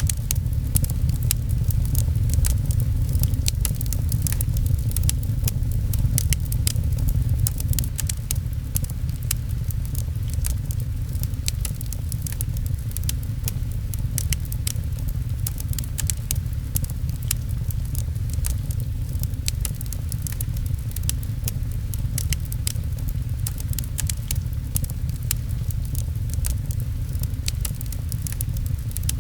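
Wood fire crackling with frequent small, sharp pops, over a steady low rumble of rain.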